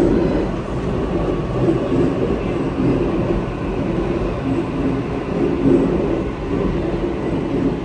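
Sydney Trains double-deck electric train moving through the station, a steady loud rumble of wheels and traction motors.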